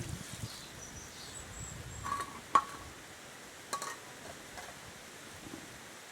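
A few light clinks, like kitchenware being handled: a cluster about two seconds in, one sharp ringing clink about two and a half seconds in, and another near four seconds in.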